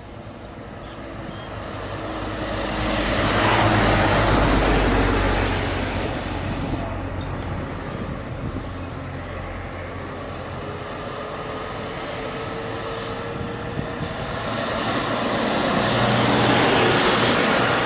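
Heavy-duty diesel truck engines labouring under load on a hill climb, a rough, noisy running sound that swells loudest about four seconds in and again near the end.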